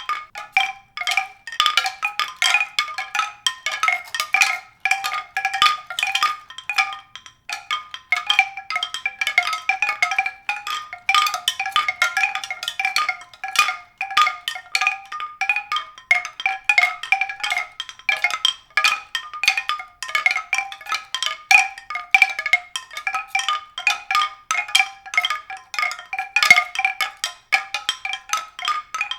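Rapid, irregular struck tones that ring at a few fixed pitches, like mallet percussion, running on without a break.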